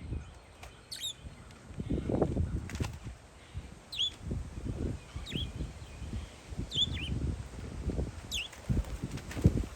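Parakeets giving short, high chirps that slide downward, about six in a row at intervals of a second or so. Wind buffets the microphone in gusts underneath.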